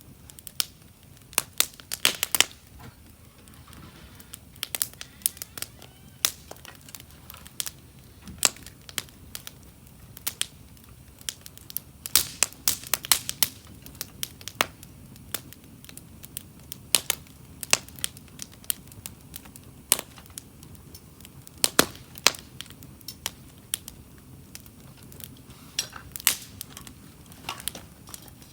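Wood fire crackling, with irregular sharp pops and snaps, some coming in quick clusters.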